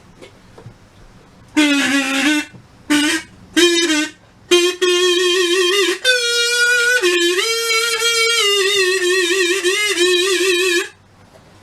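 A short solo tune on a single reedy instrument: four short notes, then a long wavering phrase that stops abruptly.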